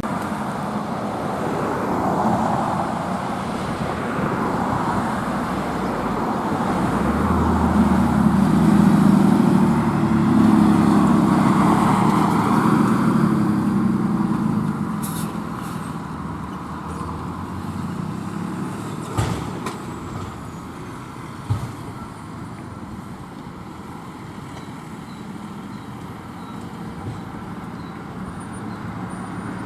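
Road traffic with a truck driving past. Its engine and tyre noise swell to their loudest about eight to twelve seconds in, then fade back to steady traffic. Two short knocks come later.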